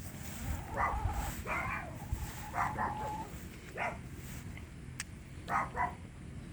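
A dog giving a scattered series of short barks and yips, some in quick pairs.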